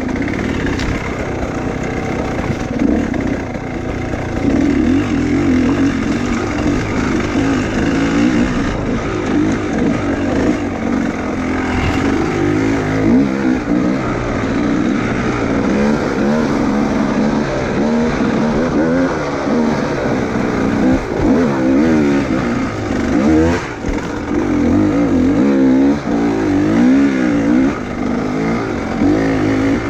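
Enduro motorcycle engine being ridden hard, revving up and down over and over, its pitch rising and falling every second or two with the constant throttle changes of riding rough terrain.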